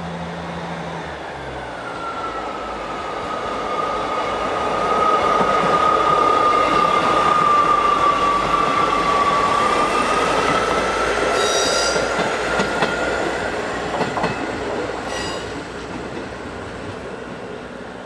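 A passenger train passing close by: a rushing rumble of wheels and running gear builds up, holds, then fades, with a steady high whine over its middle part and a few clicks of wheels over rail joints as it draws away.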